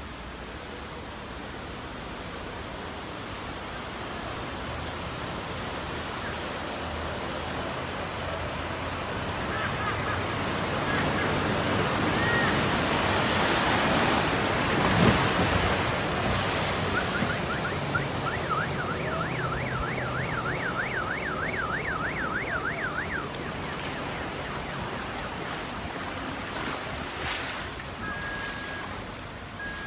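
Rain and traffic hissing on a wet street, swelling as a vehicle passes through the water about halfway in. For several seconds a siren yelps rapidly up and down, about three times a second, and near the end a short electronic beep repeats.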